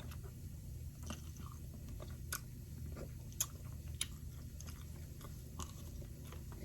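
A person chewing and biting food close to the microphone, with a scatter of sharp crunchy clicks about once a second over a steady low hum.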